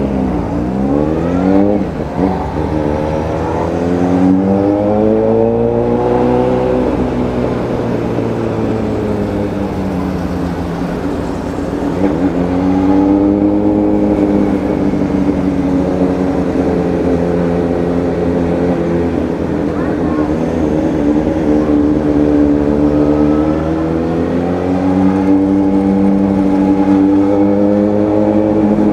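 Suzuki Bandit motorcycle engine under way, the revs climbing through the first several seconds, easing off, then climbing again about twelve seconds in and once more near the end as the rider works the throttle and gears, with wind rush on the microphone.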